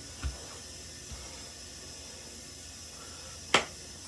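Steady faint hiss, with a soft low thump near the start and a single sharp click about three and a half seconds in.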